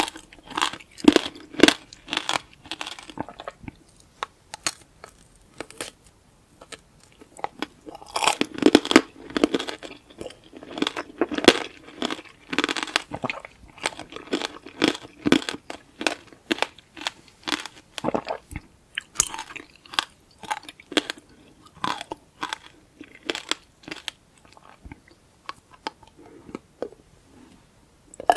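Close-miked crunching and chewing of tanghulu: the hard candied-sugar shell cracking between the teeth, with wet chewing of the fruit inside, in runs of crisp crunches broken by short pauses.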